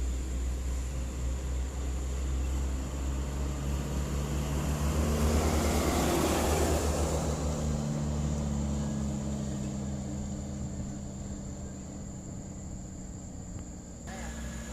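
Heavy truck engine pulling a load uphill, getting louder as the truck passes close about five to seven seconds in, then fading away.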